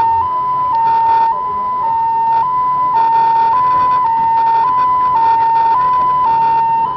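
Two-tone hi-lo emergency siren, stepping back and forth between two close pitches about every half second.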